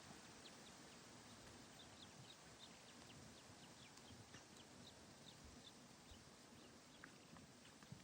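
Near silence with faint, high, quick chirps from small birds, several a second, over a soft background hiss.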